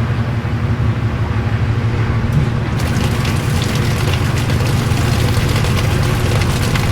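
Old-style washing machine running with a steady low hum; about three seconds in, a dense crackling noise joins the hum.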